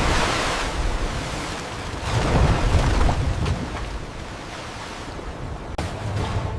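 Cinematic disaster sound effects: a deep rumble under a rushing hiss of storm-tossed sea. It swells again about two seconds in, then dies down to a lower wash.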